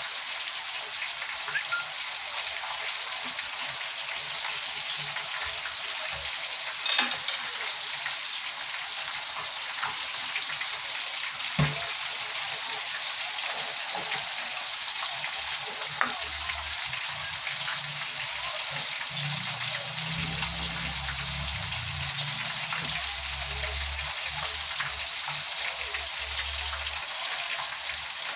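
Chicken pieces deep-frying in canola oil: a steady sizzle, with a few sharp pops of spitting oil, about a quarter, two fifths and half way through.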